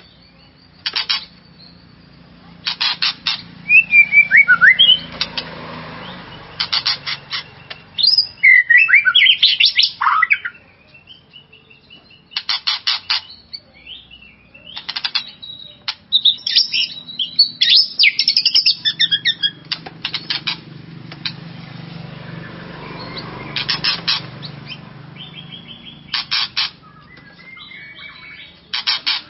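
White-rumped shama singing: loud whistled phrases that glide up and down, broken by short bursts of rapid ticking, repeated every few seconds.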